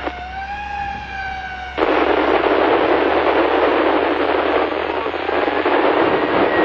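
Fire radio channel: a steady tone, then about two seconds in a sudden loud rush of noise as a transmission comes through, hissing and roaring and cut off at top and bottom the way radio audio is.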